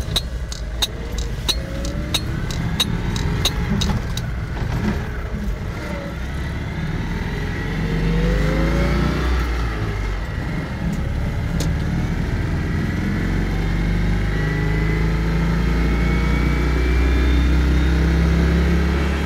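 Citroën 2CV AK350 van's air-cooled flat-twin engine driving and accelerating, its note rising as it picks up speed. A run of sharp, evenly spaced clicks, about three a second, sounds over it for the first four seconds.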